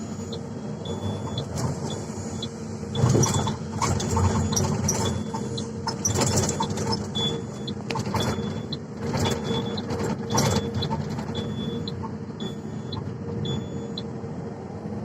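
Excavator's diesel engine running steadily, with scattered knocks and clatter about three seconds in and again a little past the middle.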